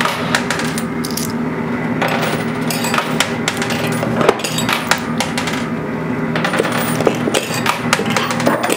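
Quarters dropping and clinking in a coin pusher arcade machine: many small metallic clinks, close together, over a steady low hum.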